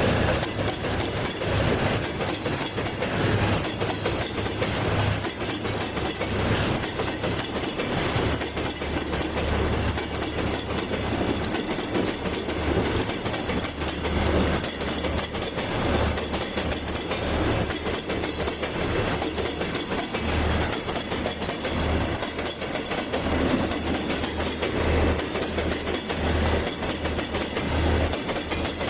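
Train running along the track, its wheels clicking over the rail joints, with a steady rumble and a low, on-and-off hum underneath.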